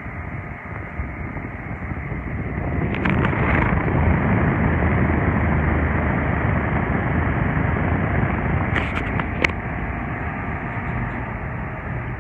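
Mallory Fan-12 30 cm table fan running: a steady rush of air that swells louder a few seconds in and eases toward the end. A few short clicks come about three seconds in and again about nine seconds in.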